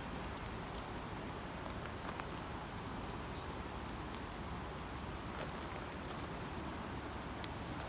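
Steady rushing of flowing river water, with sparse faint crackles and ticks.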